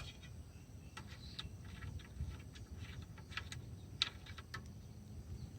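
Faint, irregular small clicks and taps, about a dozen, from a small part being handled, over a low background rumble.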